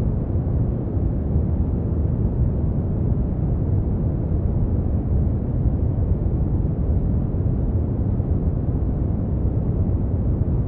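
Brown noise: a steady, deep rumbling hiss that stays even throughout, weighted to the low end with little above the midrange.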